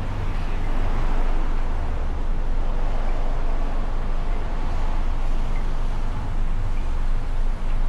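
Steady noise of a Mustang convertible on the move: a low rumble with an even rush of wind and road noise over it.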